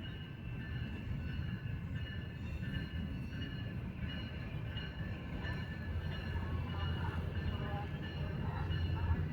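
Amtrak passenger train pulling away from the station, its diesel locomotive and cars running on the rails with a steady low rumble that grows a little louder over the last few seconds.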